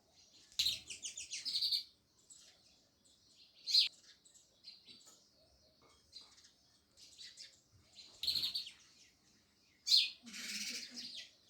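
House sparrows chirping in bouts: a quick run of chirps near the start, sharp single chirps about four and ten seconds in, another run of chirps near eight seconds, and a harsher, noisier burst of chatter near the end.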